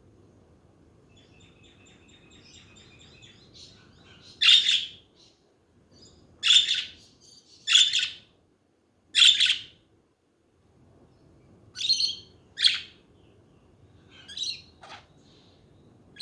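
Pet budgerigars (budgies) calling: a soft warbling chatter at first, then a string of loud, sharp chirps spaced a second or two apart, growing fewer and weaker near the end.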